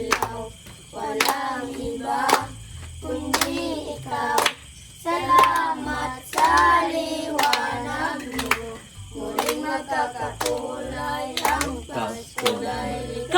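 Group of children singing a Christmas carol, with a sharp struck beat about once a second keeping time.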